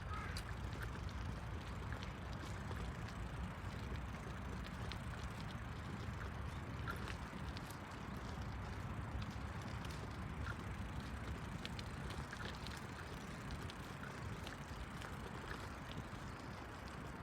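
Steady low rumble of outdoor background noise, with faint scattered clicks.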